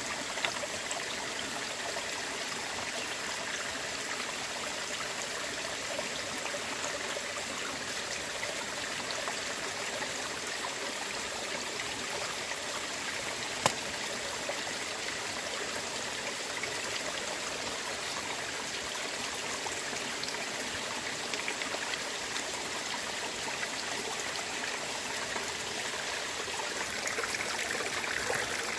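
Steady running water, with one sharp click about halfway through.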